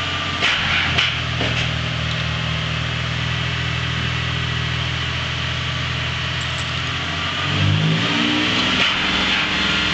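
A Toyota 4Runner's engine, serving as the jump-start donor, idling steadily. About seven and a half seconds in it is revved up and down, the way a donor engine is raised to push more charge into a dead battery.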